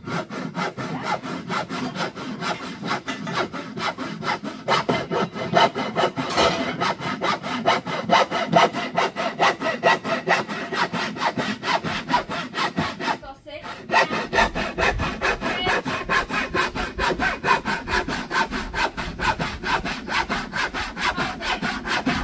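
Handsaw cutting through an old rotten wooden window frame in quick, even strokes, several a second, with a short pause about 13 seconds in.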